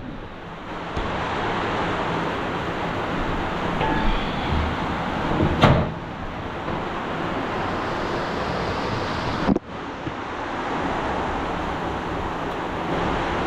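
Steady rain falling, a dense even hiss, broken off for an instant about two thirds through.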